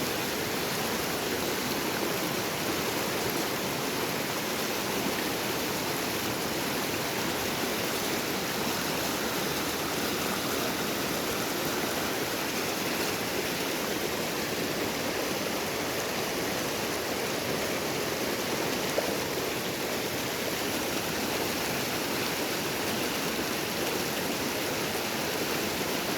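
Water of a small river running, a steady rush with one brief tick about three-quarters of the way through.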